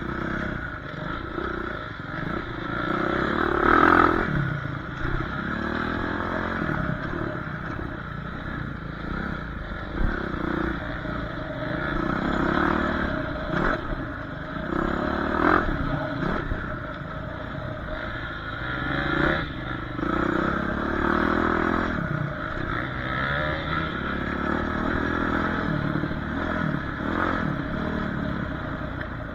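Dirt bike engine revving up and down over and over as it is ridden, with rattling and a few sharp knocks, the loudest about four seconds in.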